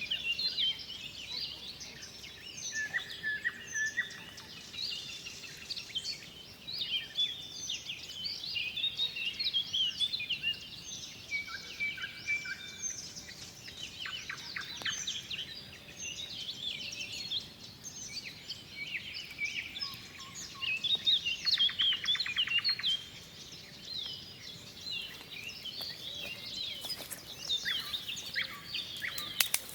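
A chorus of several songbirds singing at once, many overlapping chirps and whistled phrases, with a rapid trill about two-thirds of the way through. A few sharp clicks near the end.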